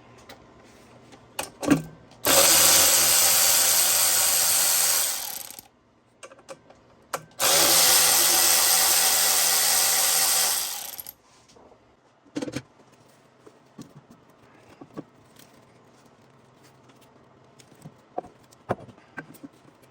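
A cordless power driver running twice, about three seconds each time, spinning out 10 mm bolts. Its motor runs steadily with no hammering. Short metal clicks from the socket and bolts come before, between and after the runs.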